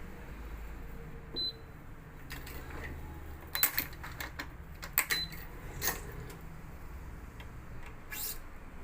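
Badminton racket being strung on an electric stringing machine: a handful of sharp clicks and snaps from the clamps and string, loudest a little past the middle, with two short high beeps.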